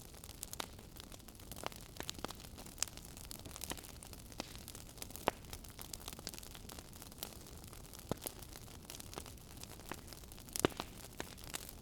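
Wood fire in a fireplace crackling: irregular sharp pops and snaps over a steady low hiss of burning, with a louder pop about five seconds in and another near the end.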